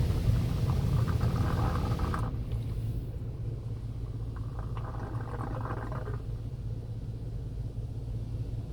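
WashWorld Razor Edge automatic car wash machinery running: a steady low hum, with two brief stretches of hissing, one in the first two seconds and another about five seconds in.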